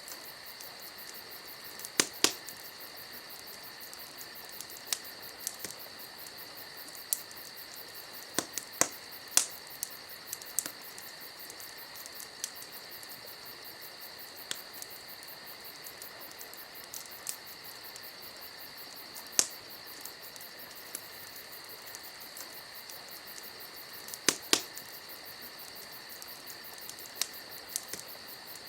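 Campfire crackling, with irregular sharp pops standing out over a steady, high chirping of crickets.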